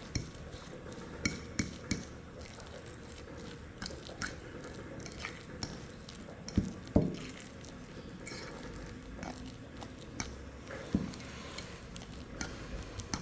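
Kitchenware clattering: utensils clinking and knocking against dishes and a bowl in irregular, scattered strokes, with a pair of louder knocks about six and a half seconds in and another near eleven seconds.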